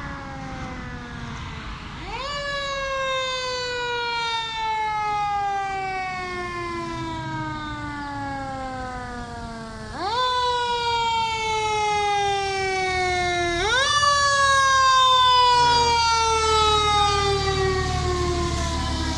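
Fire truck siren, rising sharply in pitch and then winding slowly down, four times over. A low heavy-engine rumble grows stronger in the second half.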